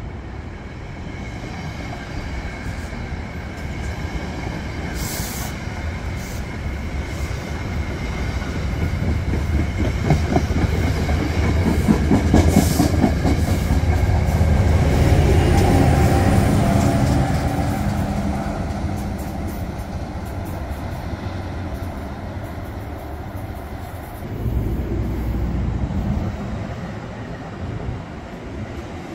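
NJ Transit commuter train rolling past on the tracks, its rumble building to a peak and then easing as the coaches go by. The wheels click rapidly over rail joints as it comes near, and a thin high whine sounds through the first several seconds.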